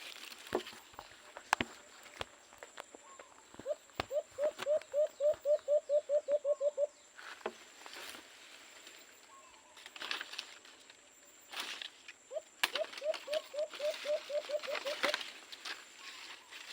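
A dove calling two runs of short, quick cooing notes, about four a second, each run lasting about three seconds. Between the runs are scattered steps and rustling.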